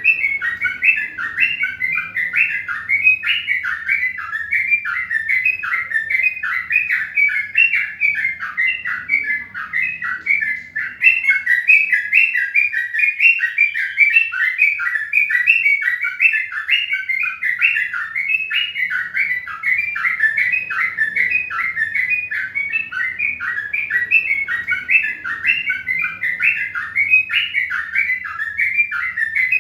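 Small birds chirping continuously: a dense run of short, falling chirps, several a second, with no pause.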